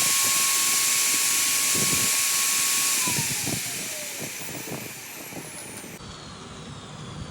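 Electric power tool, such as a grinder, running at a steady high pitch with a loud hiss, then switched off about three seconds in and winding down, its pitch falling as it slows.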